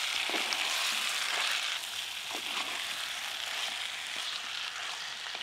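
Chicken kosha frying in its oily masala in a black pot: a steady sizzle, stirred with a wooden spatula, with a few faint scrapes. The sizzle eases slightly about two seconds in.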